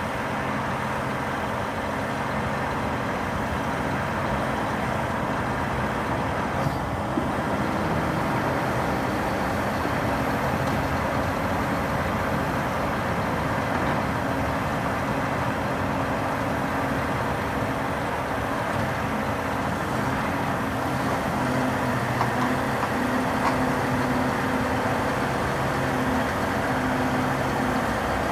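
Scania R480 crane truck's diesel engine running steadily, with a couple of faint clicks about seven seconds in.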